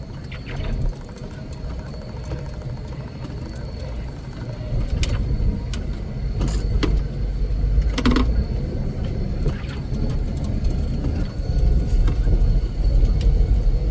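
Engine of a heavy snow-removal machine running with a steady low rumble that grows louder about five seconds in, with a few short clicks and knocks in the middle.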